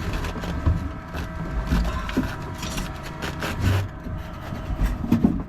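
Irregular knocks, clicks and rubbing, as of things being handled in a small cabin, over a low wind rumble on the microphone.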